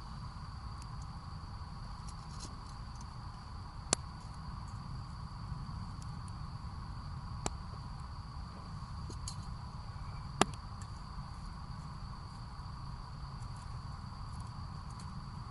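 Wood fire burning, giving three sharp pops, the loudest about ten seconds in, over a steady high insect trill and a low rumble.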